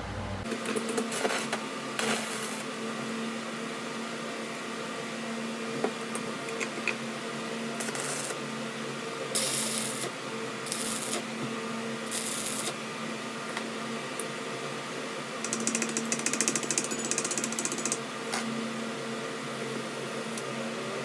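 A workshop machine hums steadily while metal is worked, with several short bursts of high, hissing scraping and a rattly stretch near the end.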